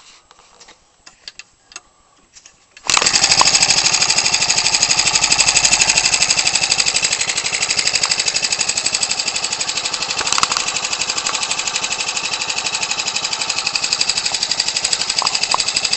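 Ryobi 29cc four-stroke engine, converted for a giant-scale RC aircraft and turning an 18x6 wood propeller: a few light clicks, then about three seconds in it starts suddenly and runs steadily with a rapid, even firing beat.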